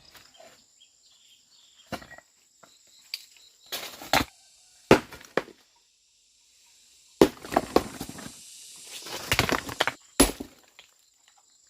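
An irregular series of sharp knocks and cracks: single strikes in the first half and a denser run of knocking and cracking towards the end.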